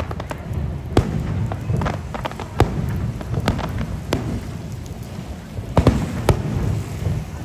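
Fireworks display going off: sharp bangs and cracks at irregular gaps of about a second, over a steady low rumble.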